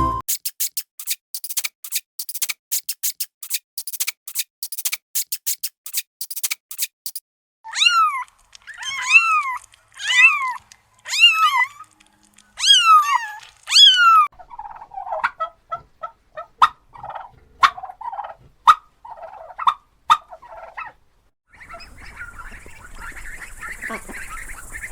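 Chicken sounds: a quick run of sharp clicks, then about seven rising-and-falling calls a little under a second apart, then a string of shorter, quieter clucks. A steady hiss comes in near the end.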